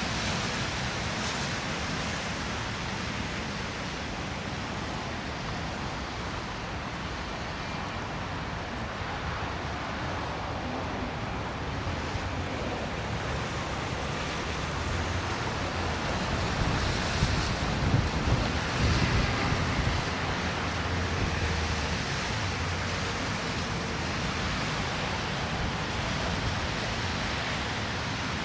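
Steady outdoor city street noise: a constant wash of traffic and wind on the microphone. It swells briefly and grows rougher about two-thirds of the way through.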